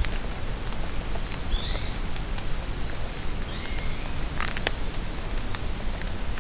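Rain falling in a forest, a steady hiss with drops pattering and ticking close by. Small birds call over it with high chirps and short trills, mostly through the middle.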